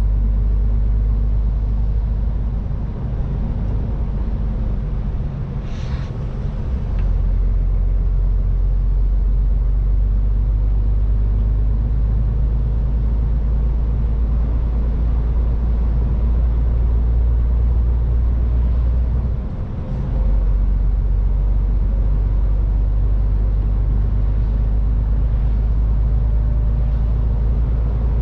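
MAN TGX 18.510 truck's 12.4-litre inline-six diesel engine running under way with road noise, a steady low drone that eases off briefly twice, a few seconds in and again about twenty seconds in. A short hiss sounds about six seconds in.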